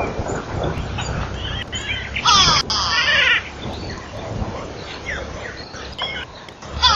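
Wild birds calling: scattered short calls, and a little over two seconds in one loud, rapidly wavering call lasting about a second.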